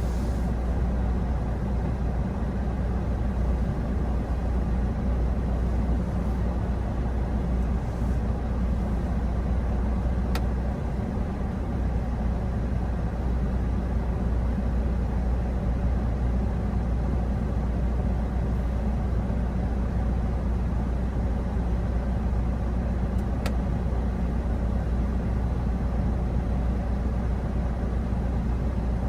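Steady low rumble of a vehicle driving along, engine and road noise without let-up, with a couple of faint ticks.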